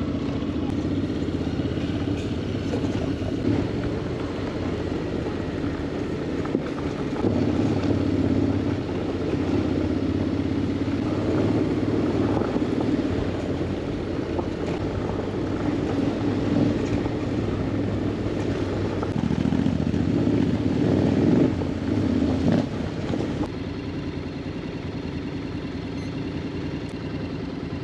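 Honda X-ADV 750's parallel-twin engine running under way, its level rising and falling with the throttle. About three-quarters of the way through it drops to a quieter, steady idle.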